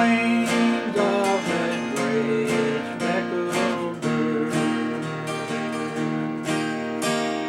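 Acoustic guitar strummed at about two strokes a second: the instrumental close of a country gospel song after the last sung line.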